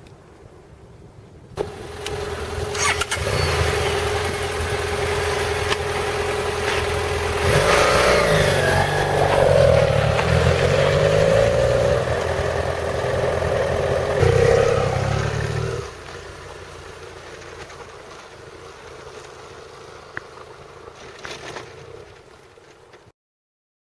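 Motorcycle engine starting up about a second and a half in and running, with the revs rising twice, then dropping to a quieter steady run about sixteen seconds in before cutting off abruptly near the end.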